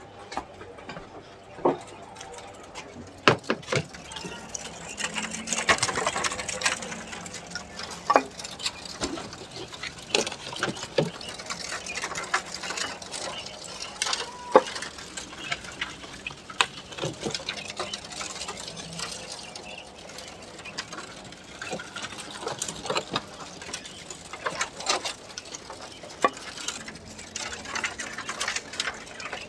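Quail cages being handled: irregular clicks, rattles and rustling, with the birds scrabbling about inside as they are caught.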